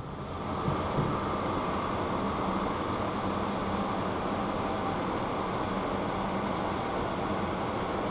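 Steady background hum and noise with a faint drone, unchanging throughout, with two small faint ticks about a second in.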